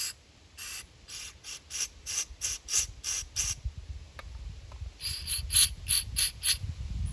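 Aerosol can of starting fluid sprayed into a carburetor's fuel passages in quick short hissing bursts, about three a second, in two runs separated by a pause of a second or so, to flush out gummed-up debris.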